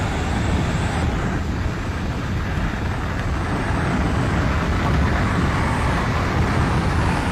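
Steady engine and wind noise of a skydiving jump plane in flight, strongest in the low end and unchanging throughout.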